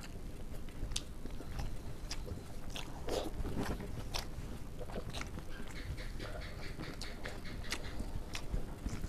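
Eating sounds from people eating rice and egg curry with their fingers: chewing and lip-smacking, heard as scattered short wet clicks at irregular intervals.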